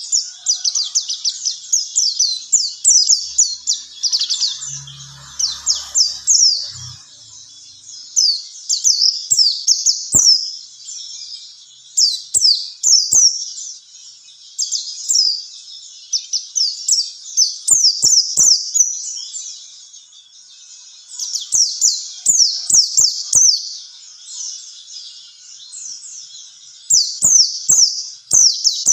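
White-eye (pleci) singing a masteran song: long, rapid runs of high, quickly falling chirps, broken by short pauses every few seconds. Faint clicks are scattered through it, and a brief low hum comes about five seconds in.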